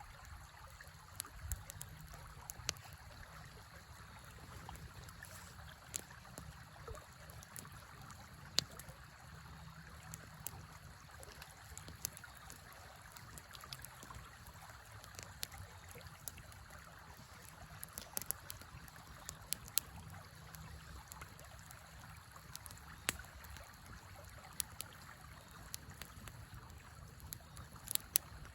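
Wood fire crackling, with irregular sharp pops, over the steady flow of a river.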